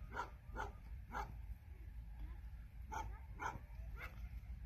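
A dog barking in short, sharp yaps: three quick ones at the start and three more about three seconds in.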